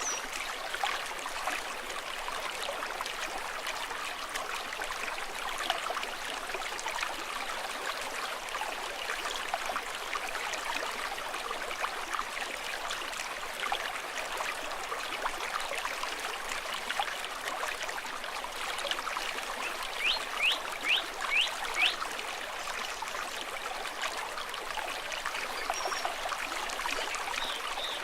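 Stream water babbling and trickling steadily. About twenty seconds in there is a run of five quick chirps, and a few faint high chirps come near the end.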